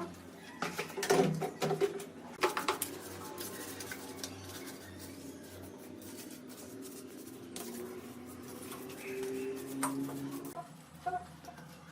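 Metal parts clinking and knocking: a cluster of sharp clicks in the first few seconds, then a quieter stretch with a faint steady hum, and another click near the end.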